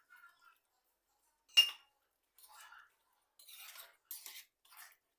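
A metal spoon strikes a cooking pot once with a sharp ringing clink about a second and a half in, then scrapes around the pot in several short strokes.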